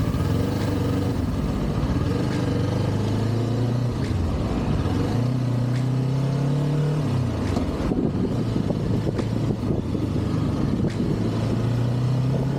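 Kawasaki Ninja 400 parallel-twin engine running through its stock exhaust while riding, with wind noise over the microphone. The engine note climbs under acceleration, drops sharply about seven seconds in, holds steady, then climbs again near the end.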